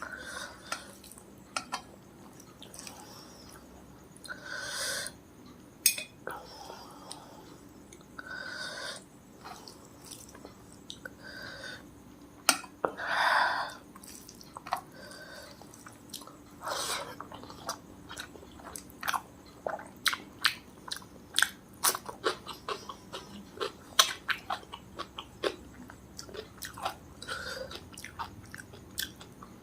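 Close-miked eating: wet chewing and mouth smacks, a few longer, louder smacks in the first half, then a quick run of short clicky chews in the second half.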